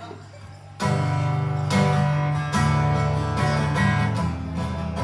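Guitar strumming chords, starting about a second in after a quiet moment.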